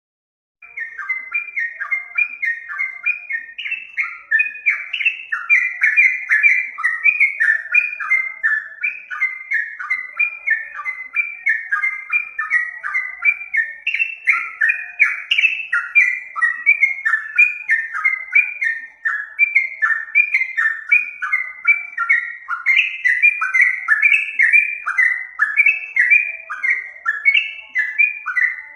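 A songbird singing a long, unbroken run of rapid, repeated chirping notes, starting about half a second in.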